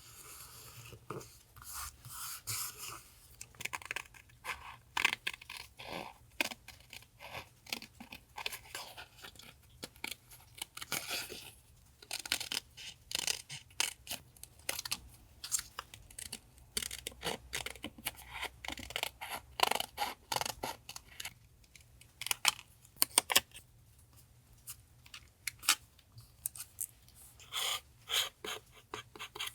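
Paper being handled and worked for collage journaling: an irregular run of short, crisp paper rustles and scrapes, with a few longer tearing or sliding sounds.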